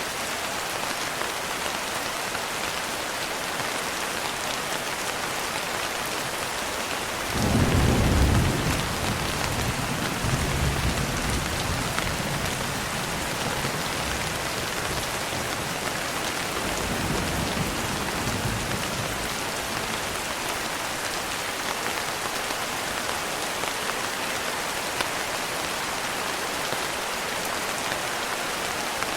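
Steady rain hissing, with a peal of thunder rumbling in about a quarter of the way through and rolling away over several seconds, and a fainter rumble of thunder later on.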